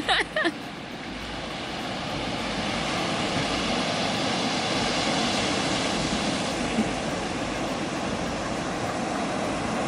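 A steady rushing noise that swells over several seconds and then slowly eases.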